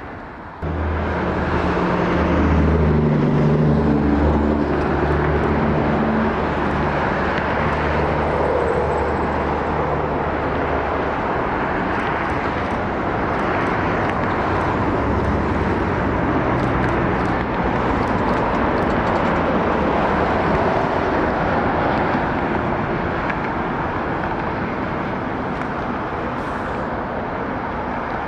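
Four-engine Airbus A340-313 jet, with CFM56 turbofans, landing: a loud, steady jet roar that starts suddenly about a second in, with a low drone strongest in the first half that eases off after about ten seconds.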